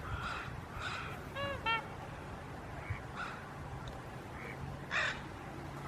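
Wild birds calling over a steady low background: several short separate calls, with two ringing pitched calls close together about a second and a half in.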